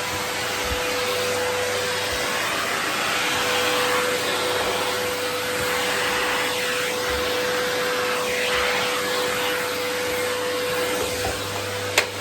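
Vacuum cleaner running steadily, with a steady whine over its rushing noise and the sound shifting in the middle as the nozzle moves over fan parts. A sharp click near the end, after which the whine stops.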